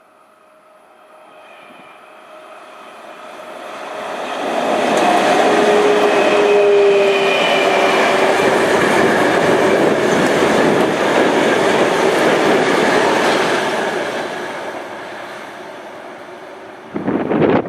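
A 2ES5K electric locomotive hauling a string of dead-in-tow TEM18DM shunting locomotives passes by, with wheels clattering over the rail joints. The sound builds up, stays loud with a few steady whining tones over the rumble, then fades. A brief loud burst comes near the end.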